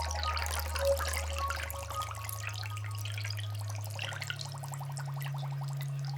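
Water dripping and bubbling in a dense patter of small plinks and clicks, over a low ambient music drone that steps up to a higher note twice.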